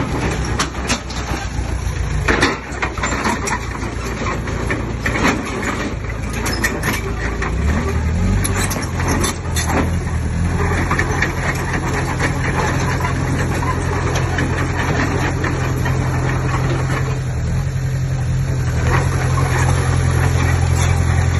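Diesel engine of heavy earthmoving machinery running under load, its note stepping up about eight seconds in and then holding steady, with metallic knocks and rattles over the first ten seconds.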